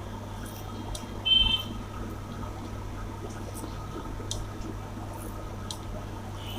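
Fingers mixing rice and curry on a plate: soft squishing and light clicks over a steady low hum, with one short ringing clink about a second in.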